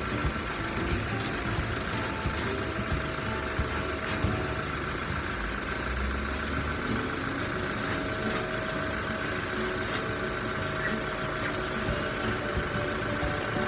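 Toyota Hilux ute's engine idling as the vehicle creeps slowly forward.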